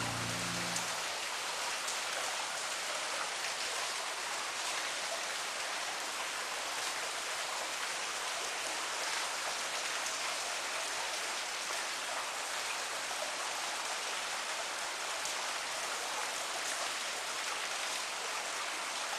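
Steady rain falling, an even hiss with faint patter of drops. Music ends about a second in, leaving the rain alone.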